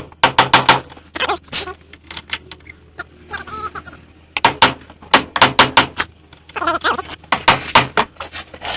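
Hammer striking a chisel against a seized wheel hub bearing in the spindle, to drive it out. Sharp metal blows come in quick bursts of several strikes a second, with short pauses between the bursts.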